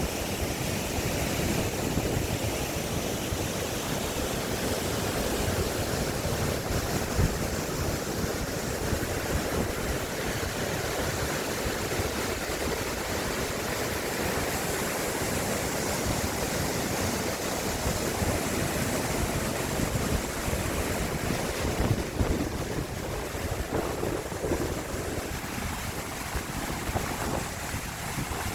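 Mountain stream rushing over rocks in a valley: a steady, dense rush of flowing water.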